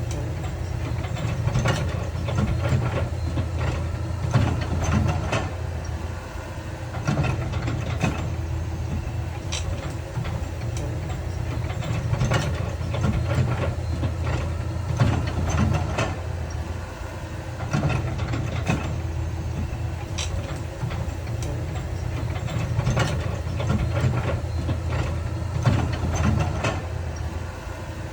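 Heavy diesel construction machinery running steadily, with irregular metallic clanks and knocks throughout.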